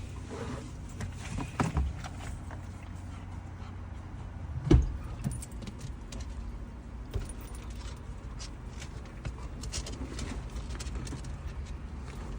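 Handling noises in a car while dog muzzles are fetched from the back: scattered clicks, knocks and rustles over a low steady hum, with one loud thump about five seconds in.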